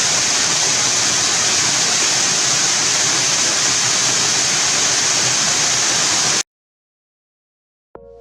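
Steady rushing water, like a waterfall or fast stream, that cuts off suddenly about two-thirds of the way through. A short silence follows, and music begins right at the end.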